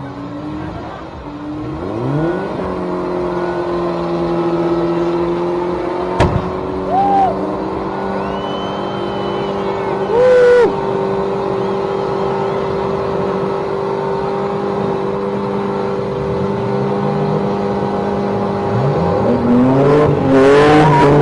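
A car engine revs up, then is held at steady raised revs for about fifteen seconds, and is blipped up and down several times near the end. A sharp click comes about six seconds in.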